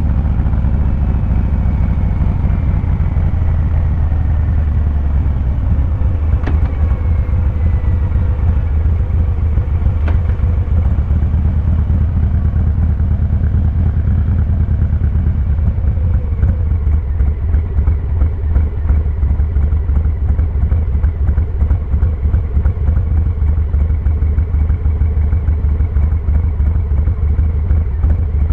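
Harley-Davidson Fat Boy 114's Milwaukee-Eight V-twin exhaust with a low, steady rumble while riding at moderate revs. About halfway through, the exhaust pulses become choppier and more pronounced.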